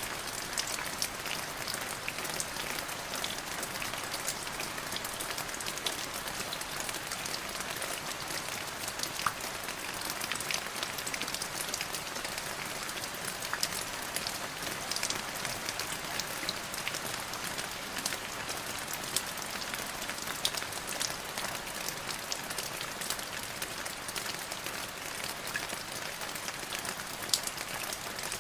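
Steady rain falling, with the close patter of individual drops hitting a surface.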